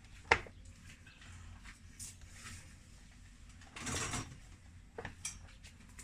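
Hand tools and chainsaw parts being handled on a workbench: a sharp click about a third of a second in, a short scraping rattle about four seconds in, and a few lighter clicks after it.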